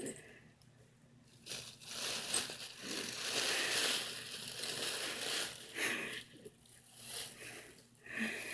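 A bag rustling and crinkling as a cat moves about in it, in irregular bursts for several seconds with a short burst near the end.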